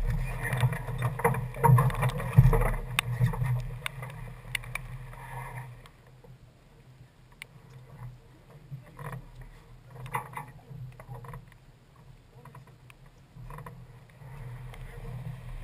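A sailing yacht under way: water and wind rushing past, with scattered clicks and knocks from the boat's gear. The rush is louder at first and drops sharply about six seconds in.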